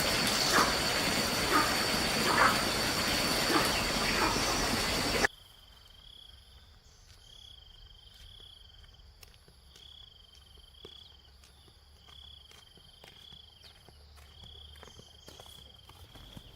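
Loud, steady rushing noise with a high whine and a few knocks, which cuts off abruptly about five seconds in. After it come insects chirping in a steady rhythm, with faint ticks.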